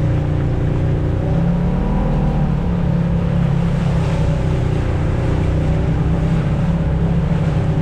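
Off-road vehicle engine running steadily under way on a trail, its pitch rising slightly about two seconds in.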